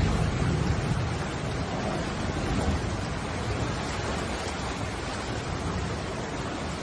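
Steady rushing of floodwater, an even roar with a heavy low rumble.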